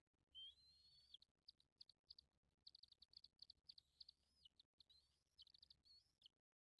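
Faint, high bird chirps in quick runs, broken by a few longer sliding whistled notes; they cut out briefly near the end.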